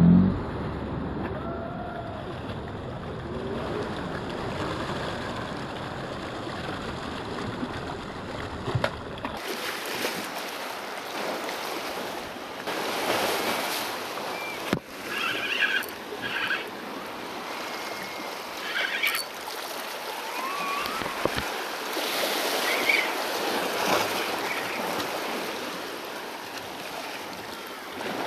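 Sea waves washing against a rocky shoreline with wind noise, a steady rushing hiss that changes character abruptly about a third of the way in, with a few short chirps and clicks later on.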